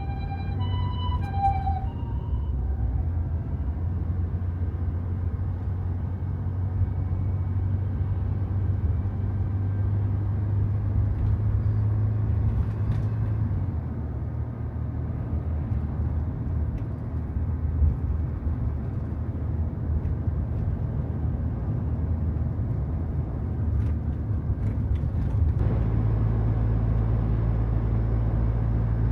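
Cabin noise inside a Toyota HiAce van: a steady low engine and road rumble. In the first two seconds a short run of electronic chime tones sounds over it. About 26 seconds in, the rumble becomes smoother and more even.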